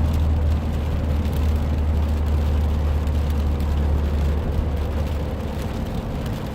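Interior sound of a 2015 Subaru WRX's 2.0-litre turbocharged flat-four slowing after a full-throttle pull, with a steady low drone and tyre noise on wet pavement. The drone holds steady, then breaks up about four and a half seconds in as the sound eases off.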